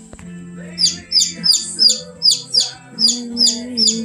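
Baby chick peeping loudly, a sharp falling peep repeated about three times a second, starting about a second in.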